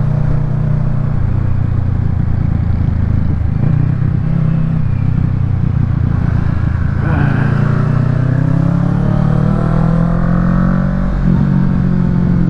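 Kawasaki Ninja 650's parallel-twin engine running through a Yoshimura Alpha full exhaust while riding. The engine note holds steady at first, then the revs climb for a few seconds past the middle and dip briefly near the end.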